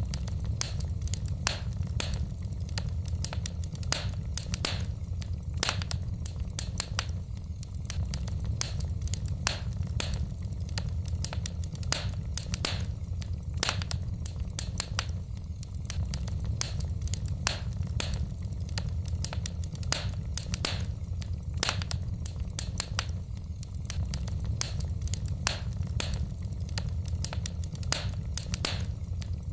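Wood fire burning in a fireplace: a steady low rumble of the flames with frequent irregular crackles and pops of the burning logs.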